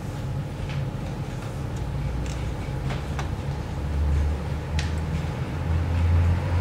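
Room tone: a steady low hum that swells a little in the second half, with a few faint, scattered clicks.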